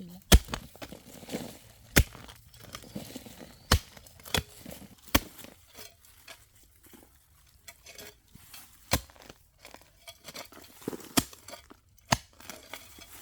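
A series of sharp single knocks or chops, irregularly spaced about one to two seconds apart, with soft rustling and crinkling between them.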